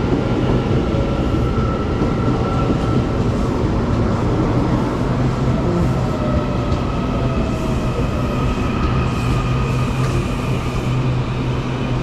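A Taiwan Railways electric local train standing at an underground platform, humming steadily with a low drone and a faint whine that slowly drops in pitch.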